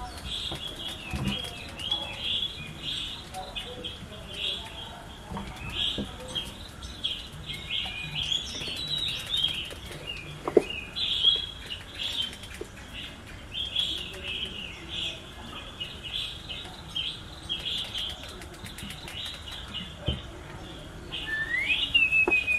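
Small birds chirping busily and without a break, with a few gliding calls, over scattered soft clicks and rustles; one sharp click stands out about ten seconds in.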